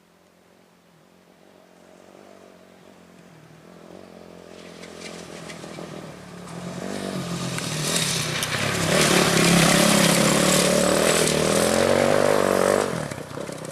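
The engine of an off-road racing motorcycle or quad approaches and gets steadily louder, then revs with shifting pitch as it passes close. The sound drops off sharply near the end.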